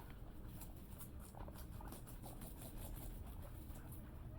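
Guinea pigs chewing celery: faint, quick, irregular crunching clicks.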